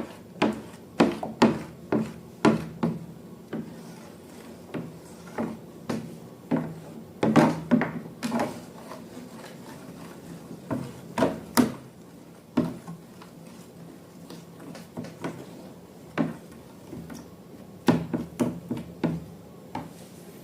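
Irregular taps, knocks and rubbing of small objects being handled on a hard surface, coming in quick clusters with short pauses between.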